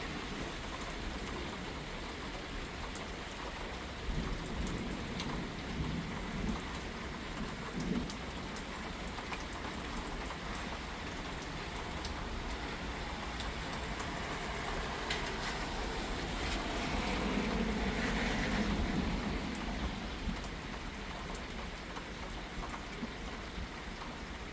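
Steady rain falling in a thunderstorm, with fine scattered drop ticks. A few seconds past the middle it swells gradually louder, then eases back.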